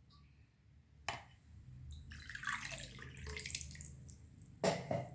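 Water poured from a cup into a kadai holding sugar, splashing for a couple of seconds, with a sharp knock about a second in and another near the end.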